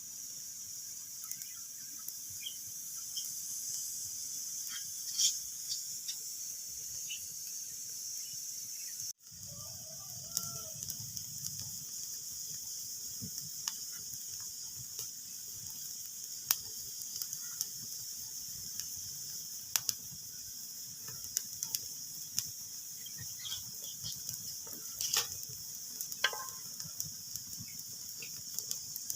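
Wood fire crackling: a steady hiss with scattered sharp pops and snaps, and a brief dropout about nine seconds in.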